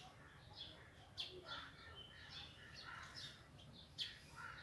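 Faint chorus of small songbirds chirping and twittering, with two brief sharp clicks, about a second in and near the end.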